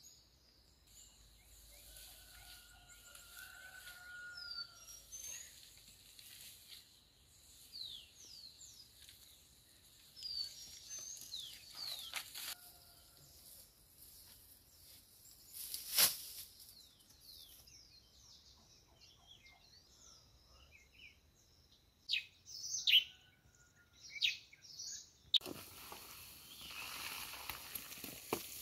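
Small birds chirping, many short quick chirps and whistles, with a single sharp click about halfway through and a few knocks some seconds later. A rushing hiss comes in near the end.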